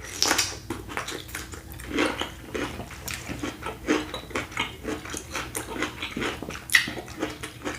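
Close-up chewing and lip smacking: irregular wet mouth clicks and smacks, several a second, of someone eating a sauced seafood boil.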